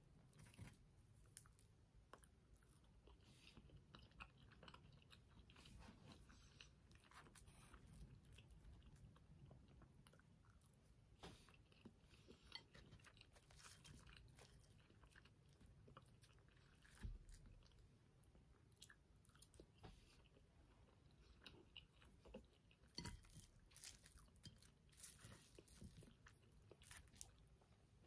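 Faint chewing of soft pancake, close up, with short wet mouth clicks and the occasional light tap of a plastic fork on the plate as pieces are cut and picked up.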